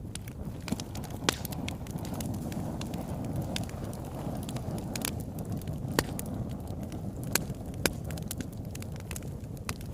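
Wood fire burning in a fireplace: a steady low rumble of flames with scattered sharp crackles and pops, a few louder snaps standing out.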